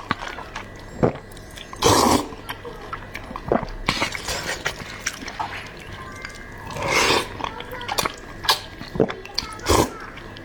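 A person eating noodles close to the microphone: loud slurps about 2 s and 7 s in, shorter ones near 4 and 10 s, and wet mouth clicks and smacks in between.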